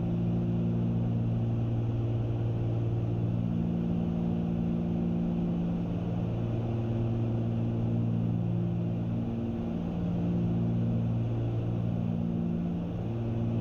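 Cessna 310 twin-engine airplane in cruise, heard from inside the cabin: a steady low propeller and engine drone. The drone swells and fades slowly every few seconds, the beat of the two engines turning at slightly different speeds.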